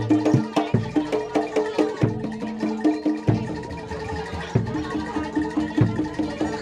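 Javanese gamelan playing kuda lumping accompaniment: a fast, steady beat of struck metal keys, roughly four notes a second, with a deeper drum or gong stroke about every second and a half.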